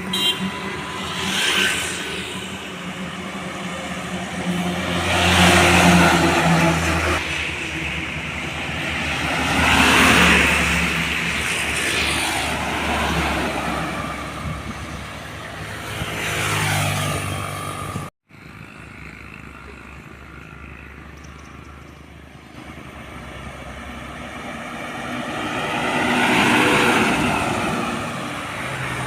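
Road traffic: motor vehicles driving past one after another, each engine and tyre noise rising and fading, about five pass-bys in the first part. A sudden cut about two-thirds through leaves quieter traffic, then one more vehicle passes near the end.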